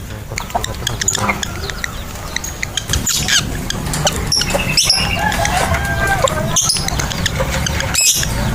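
Lovebirds chattering: quick, high-pitched chirps with repeated sharp, shrill squawks, the loudest about three, five, six and a half and eight seconds in.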